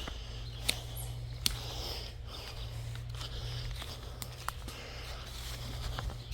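Footsteps through forest leaf litter and brush, with sharp twig snaps, the two loudest about a second and a half apart near the start, over a steady low rumble.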